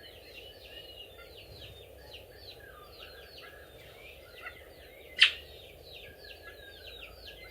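Songbirds chirping rapidly, a busy run of short falling chirps, with one sharp loud click about five seconds in.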